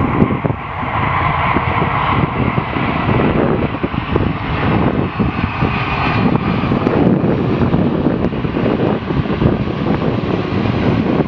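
A Boeing 747-400's four jet engines roar steadily as the jumbo jet comes in to land, with gusty wind buffeting the microphone.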